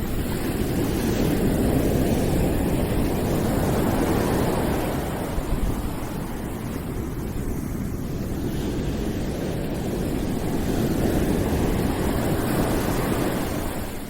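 Continuous rushing noise from a noise track, weighted toward the low end, swelling and easing slowly over several seconds with no distinct events.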